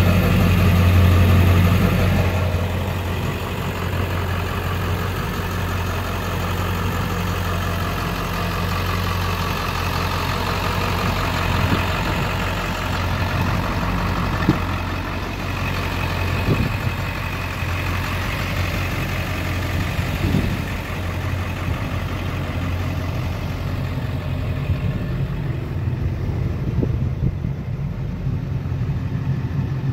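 Ford 7.3 L Power Stroke turbo-diesel V8 idling steadily, a little louder in the first two seconds, with a few faint clicks in the middle.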